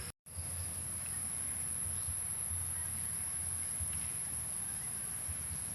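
Steady high-pitched insect chorus droning without a break, over a low rumble of wind on the microphone. The sound cuts out completely for a moment just after the start.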